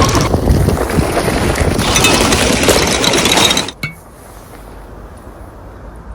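Strong wind blowing hard across the phone's microphone, cutting off suddenly with a click a little over halfway through, leaving a much quieter background noise.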